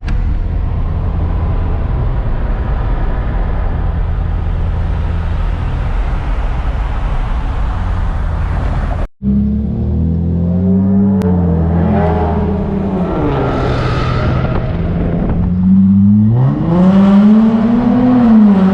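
Car engine running steadily while cruising with road noise, then, after a brief cut, revving up and falling back twice, the second rev the loudest.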